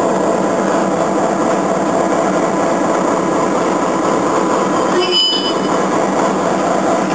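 Freight train moving slowly past a line of covered hopper cars: a steady rumble of rolling cars and running locomotives, with a brief high-pitched wheel squeal about five seconds in.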